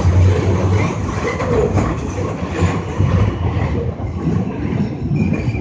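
R42 subway car running along the track, heard from inside the car: a steady low rumble with rail noise. A brief high squeal comes in near the end.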